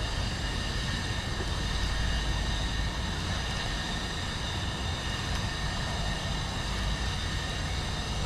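Steady rushing of fast-flowing river water, an even wash of noise strongest in the low end.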